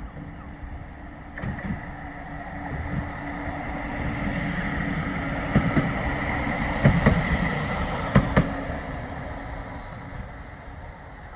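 A Flexity 2 tram passing, its running noise building and then fading, with a steady high whine and a few sharp clicks from the wheels over the rail in the middle.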